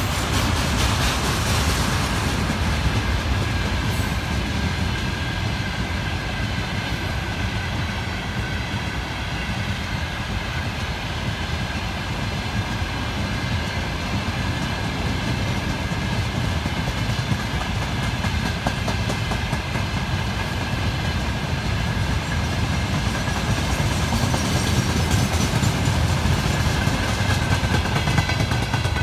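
Freight train's tank cars rolling past on steel rails: a steady rumble of wheels over the track with a clickety-clack, and a faint steady high whine on top. It grows a little louder near the end.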